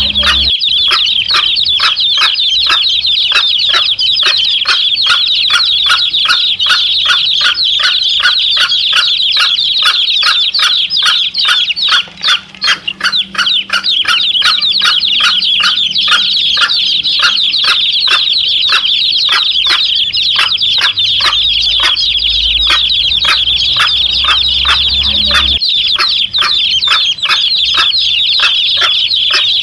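A brood of domestic chicks peeping without let-up, many short high cheeps a second, with a hen clucking among them. The peeping thins briefly about halfway through.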